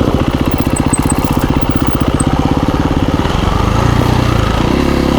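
KTM 350 EXC-F dirt bike's single-cylinder four-stroke engine idling with an even chugging beat. About three and a half seconds in, it speeds up a little and the beat smooths out.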